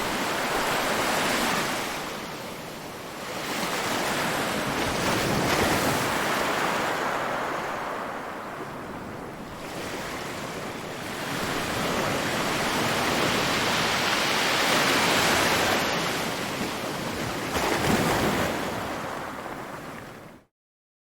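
Ocean waves breaking and washing in, in repeated surges that swell and ebb every few seconds. The sound cuts off suddenly near the end.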